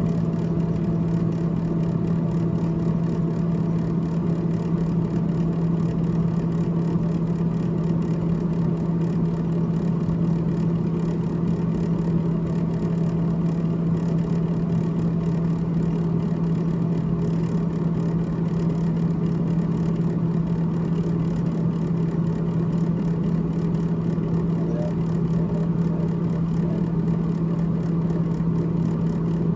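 Freezer evaporator fan of a GE GTH18XCTZRBB refrigerator running with a steady hum on one low pitch, with fainter higher tones above it.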